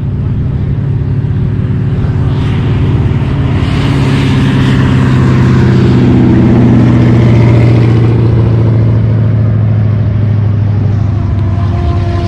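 A drag race pair of cars, one of them a twin-turbo Lamborghini Huracán, running at full throttle down a half-mile airstrip. The engine note swells to a peak about seven to eight seconds in, then eases a little.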